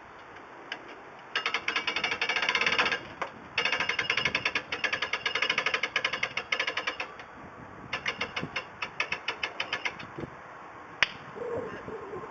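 A ratchet mechanism clicking rapidly in three runs of cranking, then a single sharp click near the end.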